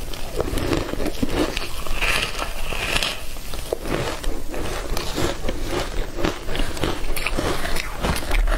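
Close-miked eating sounds: a person biting and chewing a soft, green-powder-coated food, a dense run of small sharp mouth clicks, with the food torn apart by hands in plastic gloves.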